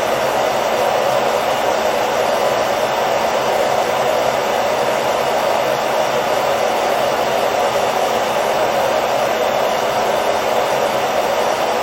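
Hair dryer running continuously: a steady, unchanging whooshing rush of air with a faint motor hum underneath.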